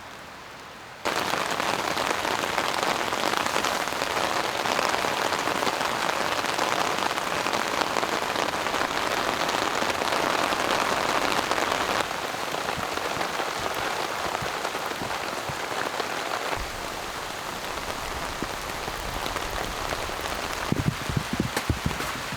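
Heavy rain falling in a steady hiss, starting abruptly about a second in and easing a little twice. Near the end, irregular low thuds join the rain.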